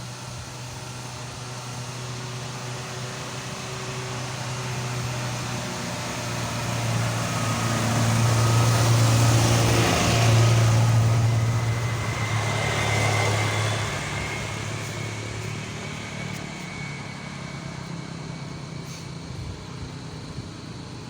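A motor vehicle on a steep hill road approaches, passes close by about halfway through and fades away, its engine a steady low hum under the rush of the passing. A second, smaller swell follows just after the loudest point.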